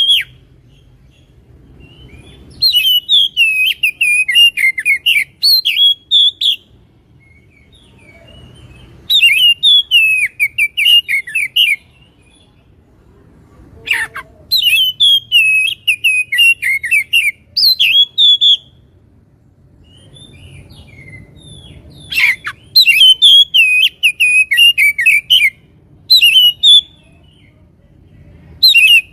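Oriental magpie-robin (kacer) singing a loud, clear, rapid warbling song in bouts of a few seconds separated by short pauses. Two sharp downward-sweeping notes break in, one near the middle and one about three quarters through.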